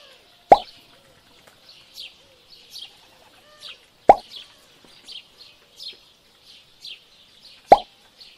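Three sharp clicks a few seconds apart as small white pieces are set down one by one on a hard surface. Short falling bird chirps repeat quietly in the background.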